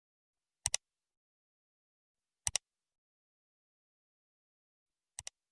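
Dead silence broken by three short double clicks, about a second in, halfway through and near the end; the last pair is quieter.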